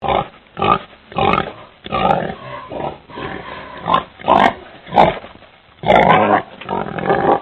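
Pig grunting and squealing in a string of short, harsh calls, about one or two a second.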